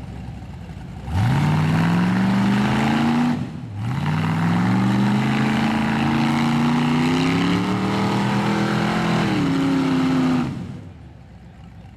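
Rock buggy's Ford engine revving hard under load: a rev of about two seconds, a brief lift off the throttle, then a long pull of about seven seconds with the pitch slowly climbing, before it drops back to idle near the end.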